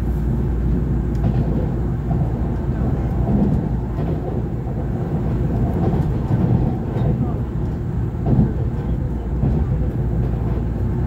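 Cabin noise of a Taiwan Railway EMU3000 electric multiple unit running along the track: a steady low rumble, with faint passenger voices underneath.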